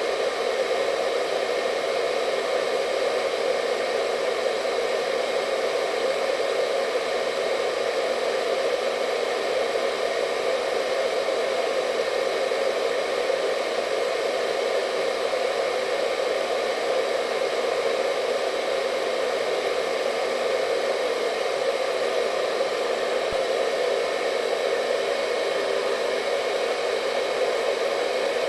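Hair dryer running steadily: an even, constant blowing noise centred in the lower-middle range, with faint steady whine tones above it and no change in speed.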